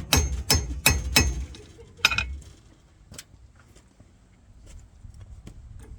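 Blacksmith's hammer blows on hot metal at the anvil, a quick regular run of about two or three strikes a second with a light ring, stopping a little over a second in. One more blow follows about two seconds in, then only faint light taps.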